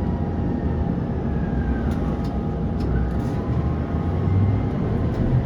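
A tram running along the rails, heard from on board: a steady rumble of wheels on track with a faint motor whine, and a few light clicks about two to three seconds in.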